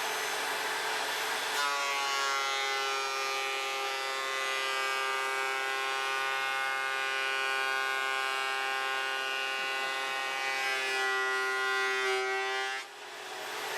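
Vevor electric wood planer running, with a steady high-pitched whine that sets in abruptly about a second and a half in as a board is fed through the cutter. The whine sags slightly in pitch near the end and cuts off about thirteen seconds in, leaving the planer's running noise.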